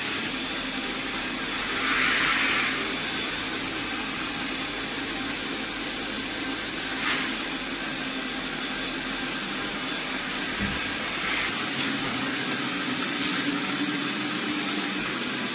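Steady motor whir from an iRobot Roomba Combo robot vacuum-mop system, with a couple of brief louder swells and a few small clicks.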